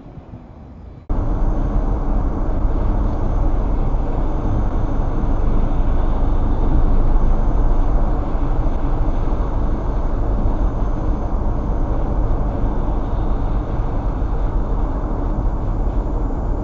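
Steady noise of a car driving, heavy in the low end, cutting in abruptly about a second in.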